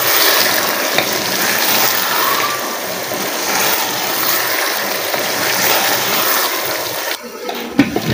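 Chicken and vegetables sizzling in hot oil in a pan, with ground tomatoes just added: a steady hiss that cuts off suddenly about seven seconds in, followed by a couple of knocks near the end.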